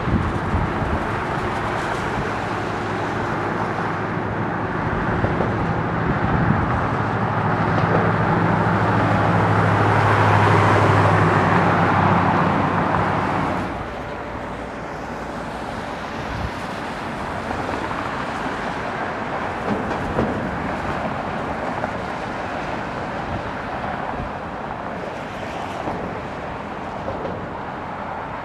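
Jet engines of a Bombardier CRJ-900 regional jet, its two rear-mounted turbofans, rising to their loudest and then cut off suddenly about halfway through. A quieter, steady background noise of wind and traffic follows.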